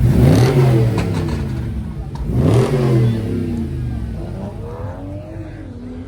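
Dodge SRT 392's 6.4-litre HEMI V8 blipped twice about two seconds apart, the pitch shooting up and dropping back each time, then a softer rise and fall as it settles.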